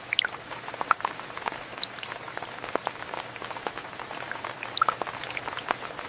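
Rain falling steadily, with scattered close drops making irregular plinks and taps over an even hiss.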